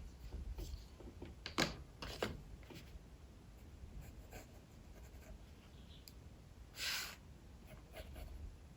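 Sketching strokes on paper: short scratchy strokes, the loudest about one and a half and two seconds in, and a longer stroke about seven seconds in, over a low steady rumble.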